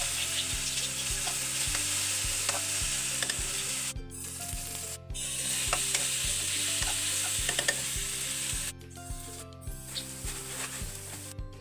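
Chopped chicken filling sizzling in a frying pan as it is stirred. The sizzle breaks off briefly about four seconds in and again near the end, over background music with a steady beat.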